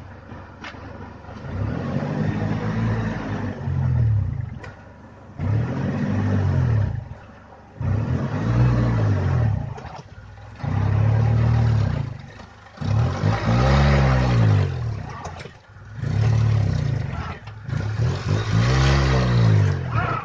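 Engine of an Oka-based buggy revved hard in repeated bursts, about seven times, each rising and falling in pitch, as the stuck buggy tries to climb out of a pit.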